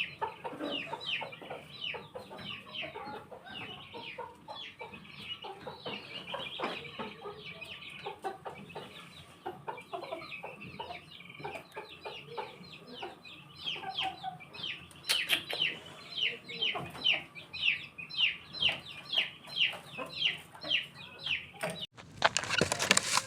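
Aseel chickens calling: a dense run of short, high, falling chirps, several a second. Near the end a loud rustling burst lasts about a second.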